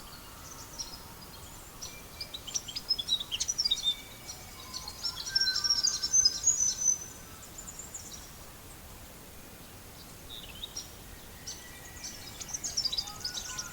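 Small birds chirping and whistling in quick bursts, busiest about a third and halfway in and again near the end, over a steady soft hiss.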